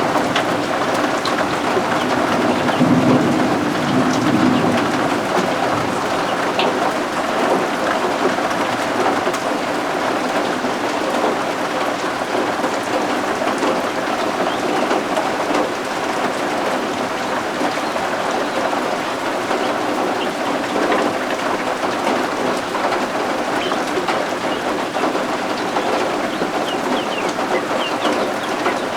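Steady heavy rain with a low roll of thunder a few seconds in, and faint high peeping of baby guinea fowl keets here and there, more of it near the end.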